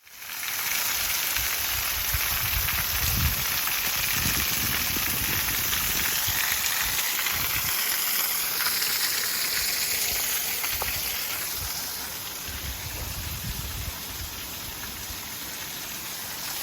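Rushing water of a woodland stream, a steady hiss with low rumbles now and then, easing a little about twelve seconds in.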